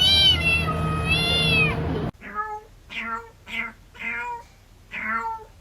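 Domestic cats meowing. First come two drawn-out meows that bend up and down in pitch over a steady background hum. After an abrupt cut about two seconds in, there are five short meows in quick succession, each falling in pitch.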